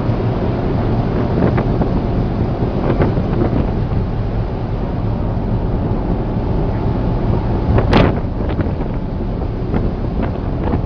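Steady low rumble of a ship's engine under way, with wind buffeting the microphone. A sharp bang about eight seconds in.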